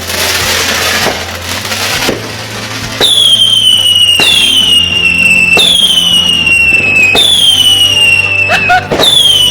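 Fireworks: a crackling burst, then a run of whistling fireworks, each starting with a sharp crack and a whistle that falls slightly in pitch, one after another every second or so.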